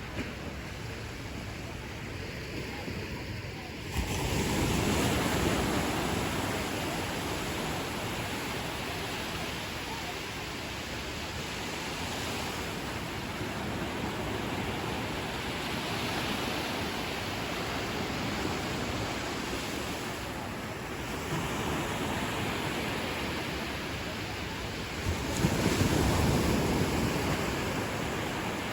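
Ocean waves breaking on a beach, a steady wash of surf that swells with a breaking wave about four seconds in and a larger one near the end.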